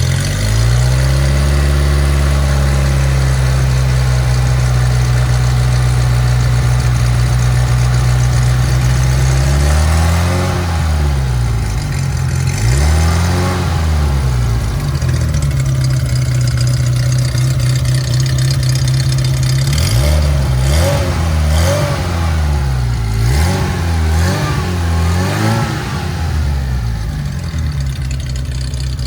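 Ferrari Mondial 3.2's V8 idling while it warms up after a cold start. There is a short rev about a second in, two single throttle blips in the middle, and a quick run of several blips near the end.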